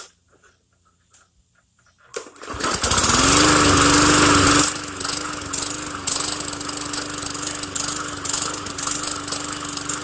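Briggs & Stratton 4.5 HP single-cylinder four-stroke push-mower engine pull-started about two seconds in, catching at once, revving up and settling into a steady run. It is loudest for its first two seconds and then runs on evenly: the engine now starts on the first pull with the throttle cable's slack taken up.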